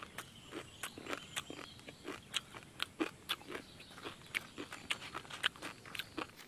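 Close-up crunching and chewing of raw, uncooked instant noodles and raw red onion: an irregular run of short, crisp crunches, about three or four a second.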